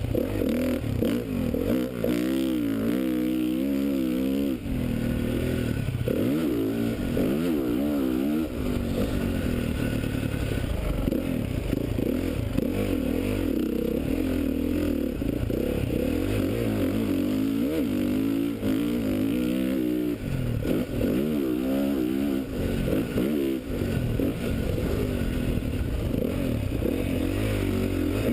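2013 Honda CRF450's single-cylinder four-stroke engine, heard on board, revving up and down over and over as the dirt bike accelerates and backs off around a motocross track.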